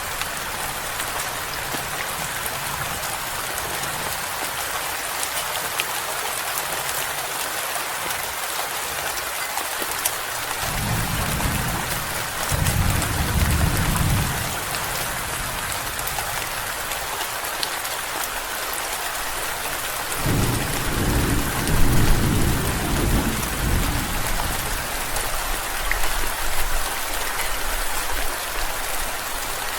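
Steady rain falling, with two low rolls of thunder: one about ten seconds in lasting a few seconds, and a louder one about twenty seconds in.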